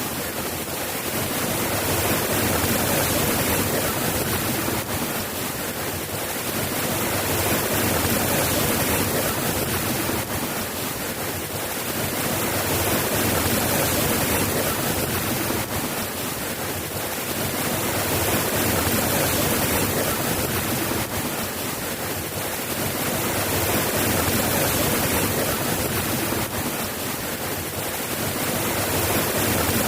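Steady rain, a dense even hiss that swells and eases in loudness about every five seconds.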